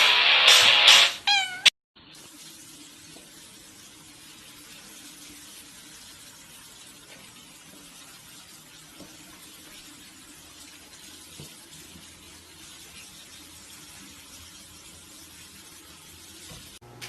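A domestic cat yowling loudly, long drawn-out meows with pitch bending up and down, that stop abruptly after about a second and a half. Then only a faint, steady hiss with a few soft ticks.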